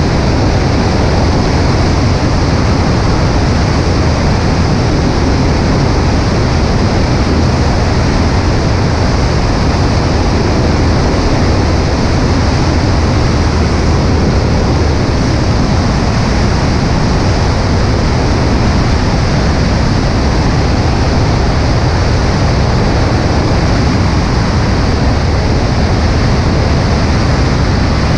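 Cessna 140A light aircraft in cruise flight: the steady drone of its engine and propeller mixed with a loud, even rush of wind over the microphone, unchanging throughout.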